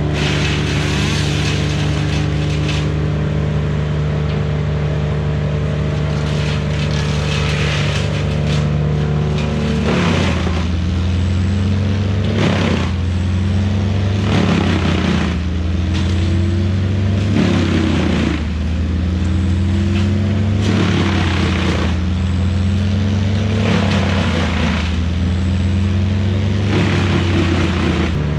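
Truck engine running at a steady pitch, then from about ten seconds in repeatedly rising in pitch and dropping back, like accelerating through a run of gear shifts.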